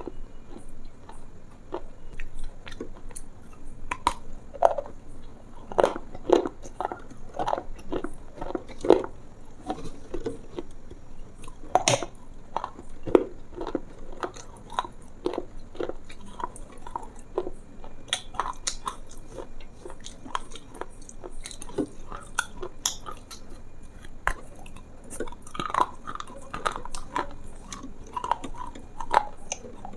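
Chewing and crunching: irregular crisp bites and crunches, several a second, with no talking.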